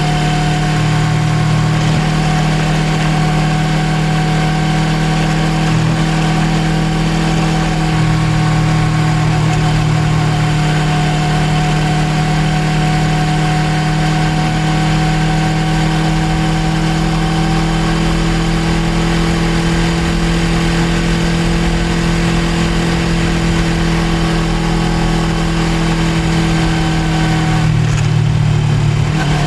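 Suzuki GSX250R's 248 cc parallel-twin engine running at a steady pace while riding. About a second before the end the engine note drops briefly and then picks up again.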